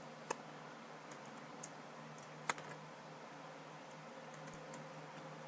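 A few sparse, faint computer keyboard key clicks, the clearest about two and a half seconds in, over a low steady hum of room tone.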